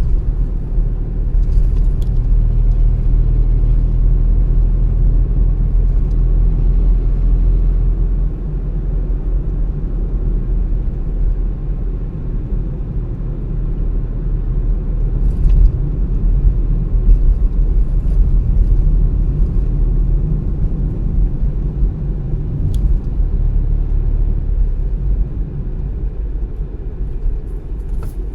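A car being driven: a steady low rumble of road, tyre and engine noise, with a few faint ticks. The rumble eases slightly near the end.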